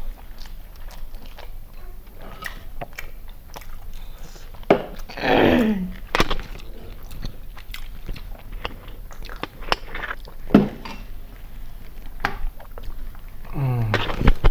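Close chewing and mouth sounds of someone eating chicken biryani, with many short wet clicks and smacks throughout. A brief voice sound falls in pitch about five seconds in, and another comes near the end.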